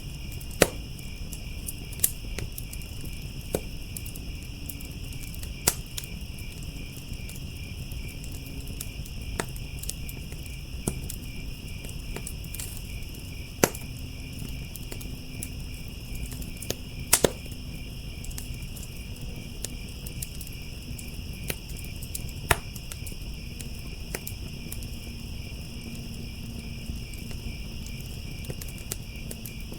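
Crickets trilling steadily and unbroken over a crackling wood fire, which gives a low rumble and sharp pops at irregular intervals every second or few, a couple of them louder.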